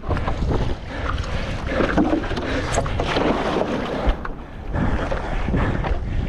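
Strong wind rumbling on the microphone over choppy sea, with irregular water splashing and slapping around a stand-up paddleboard.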